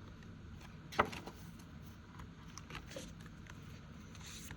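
Faint handling of paper envelopes and card trackers, with one sharp click about a second in and a few light ticks and rustles after it.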